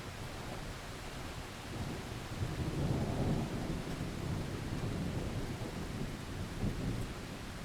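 Heavy rain hissing steadily while a long roll of thunder rumbles in about two seconds in, peaks around three seconds and slowly dies away with a few swells.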